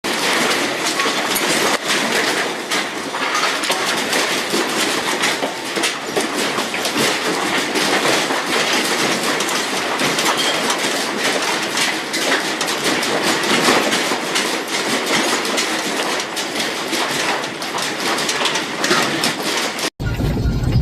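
Continuous loud rattling and clattering of a building and its contents shaking in a strong earthquake, many small knocks over a steady din. It breaks off abruptly near the end.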